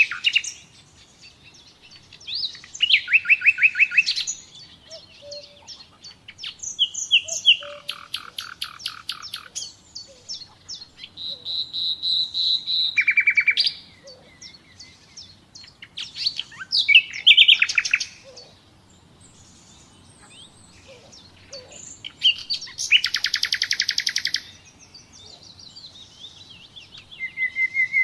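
Common nightingale singing: a series of short, varied phrases of fast repeated notes and whistles, each lasting one to two seconds, with pauses of a second or more between them.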